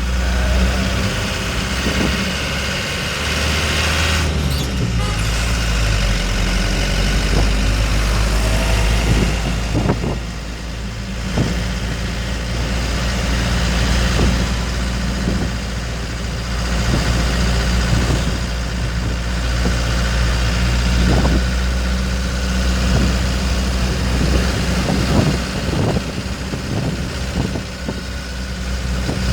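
Dump truck engine running as the truck is driven, a steady low engine note that shifts in pitch a few times.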